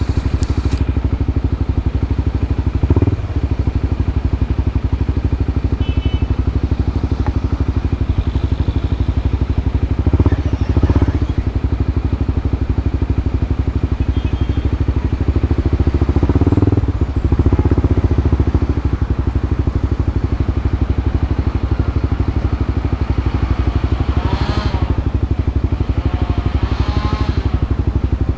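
Honda CB Twister single-cylinder engine idling through an aftermarket exhaust, with short throttle blips about three and ten seconds in and a longer rev around sixteen to eighteen seconds.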